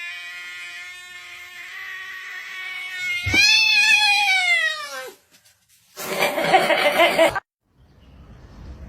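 A cat yowling: a long, steady, drawn-out yowl, then a louder yowl about three seconds in that rises and falls in pitch. A short, loud, noisy burst follows, and the sound cuts off abruptly.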